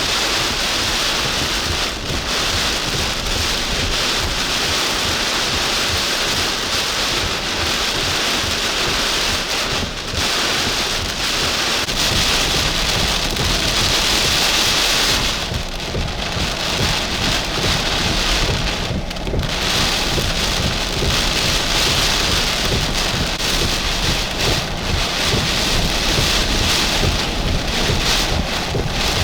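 Heavy wind-driven rain hissing steadily under a tropical storm, with a low rumble of wind buffeting the microphone that grows heavier about a third of the way through.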